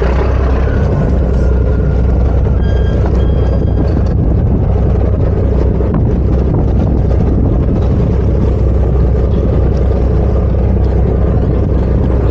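Sightseeing boat's engine running with a steady low drone, mixed with wind noise on the microphone.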